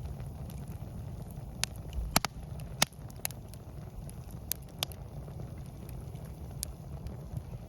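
Wood campfire crackling, with scattered sharp pops, the loudest about two to three seconds in, over a steady low rumble.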